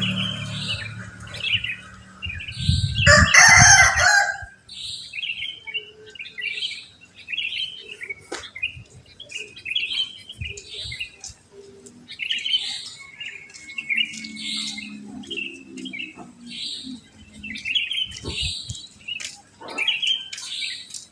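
Sooty-headed bulbuls singing: short bubbly phrases, repeated about once a second, with several birds overlapping. About three seconds in, one loud, longer call lasting about a second and a half stands out above them.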